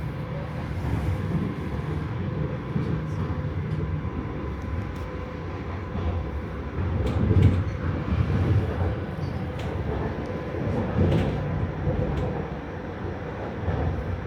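Regional train running on the rails: a steady low rumble with a faint steady tone, scattered clicks and knocks, and louder swells about halfway through and again near the end.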